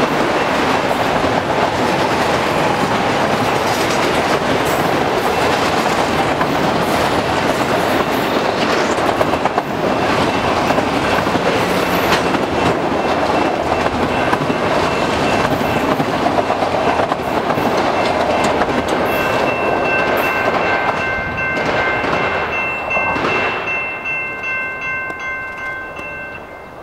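Empty autorack freight cars rolling past at speed, wheels clacking over the rail joints. After about twenty seconds the end of the train goes by and the rumble fades away in pulses, leaving a steady high ringing tone.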